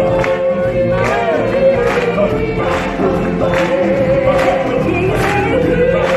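Show music: a group of singers singing a sing-along song over band backing, with long held notes.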